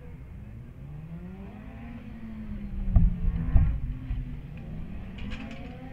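Superbike racing motorcycle engine revving, its pitch rising and falling repeatedly, with two loud thumps about three seconds in.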